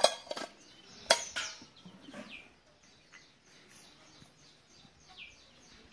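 Birds chirping in short downward-sweeping calls, with two sharp clicks near the start, one right at the beginning and one about a second in.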